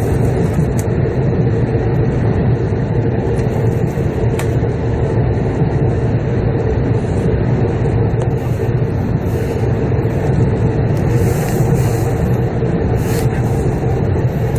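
Steady running noise of a Shinkansen bullet train heard from inside the passenger cabin: a continuous low rumble with a faint steady hum.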